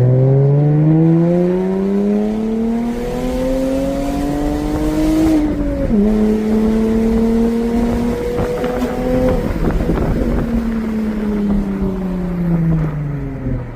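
Jaguar F-Type's supercharged 3.0-litre V6 through a straight-piped stainless exhaust, rear silencer and valves removed, accelerating: the revs climb, drop sharply at an upshift about six seconds in, climb again, then fall away as the throttle is lifted, with a few crackles from the exhaust around the lift-off.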